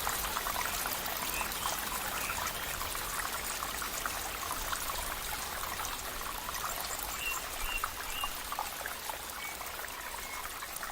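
Running water trickling and babbling steadily, like a small stream, with a few faint short high chirps about a second in and again around seven to eight seconds in.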